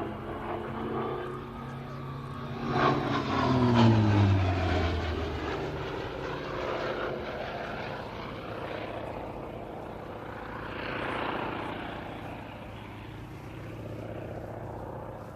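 Hawker Sea Fury's Bristol Centaurus 18-cylinder radial engine and propeller making a fast pass. The engine note swells to its loudest about four seconds in and drops in pitch as the aircraft goes by, then swells again more softly near eleven seconds.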